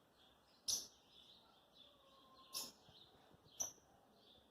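Faint birds chirping, with three short sharp sounds: one about a second in, one past halfway and one near the end.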